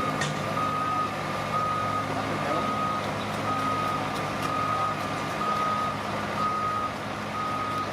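Reversing alarm on heavy earthmoving machinery beeping in a steady single high tone about once a second, over a diesel engine running steadily underneath: a machine backing up.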